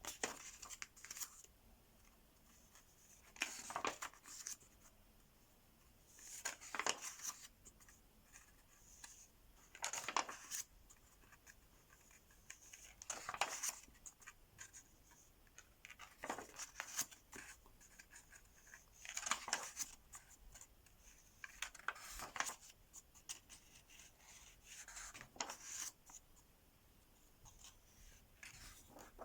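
Mystery Ink marker pen scratching across paper in short runs of scribbling, about a second each, roughly every three seconds.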